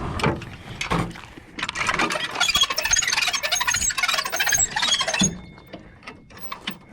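Hand-cranked boat trailer winch being wound in to pull the boat up, squealing and clicking for about three and a half seconds, then a few scattered clicks as the strap is made tight.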